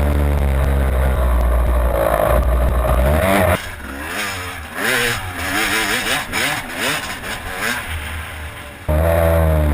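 2001 Yamaha YZ250 two-stroke motocross engine running hard with a heavy low rumble. About three and a half seconds in the sound drops suddenly to a quieter engine note that keeps rising and falling as the revs change, then jumps back to full loudness near the end.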